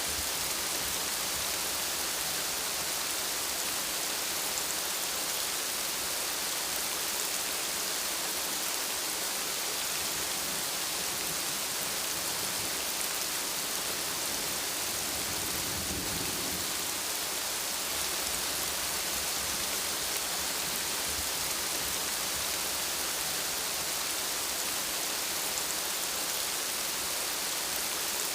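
Steady rain, an even hiss of falling water with no let-up. About halfway through, a short low rumble rises and fades within about a second.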